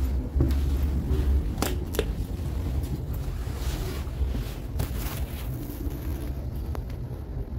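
Steady low rumble inside a regional train carriage, heard by the closed passenger door, with a few sharp clicks about two seconds in and again near five seconds.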